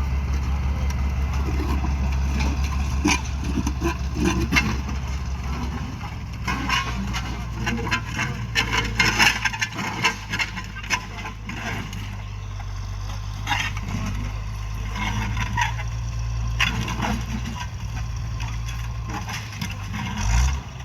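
Tractor tilling a field: the diesel engine runs steadily under load, its note shifting about six seconds in and rising briefly near the end. Over it come many sharp cracks and crunches as the tillage implement breaks up the ground.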